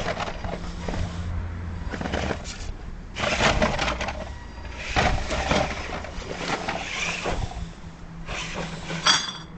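Radio-controlled rock crawler's motor and gears humming steadily while its tyres and chassis crunch and scrape over rock in several bursts, with a short high squeal near the end.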